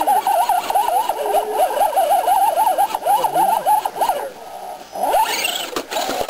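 Electric motor and gears of an RC rock crawler whining, the pitch rising and falling quickly as the throttle is feathered. It eases off about four seconds in, then gives one quick rising whine a little after five seconds, with a few sharp clicks near the end.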